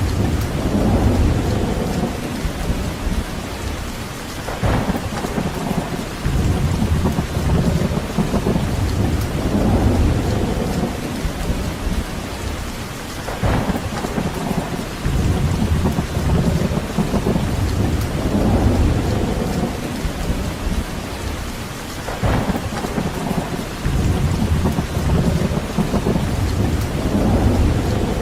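Steady heavy rain with deep low rumbling swells every few seconds, and a short sharper crack three times, about nine seconds apart.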